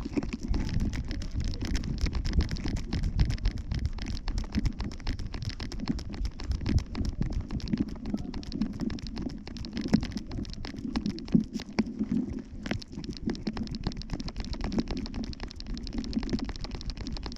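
Rubbing and knocking noise from a camera strapped to a Yorkshire terrier as it moves: a steady low rumble peppered with many small clicks.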